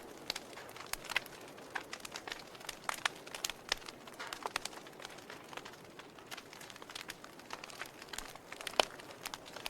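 Wood fire burning in a fireplace: irregular crackles and sharp pops over a soft hiss, with one louder pop near the end.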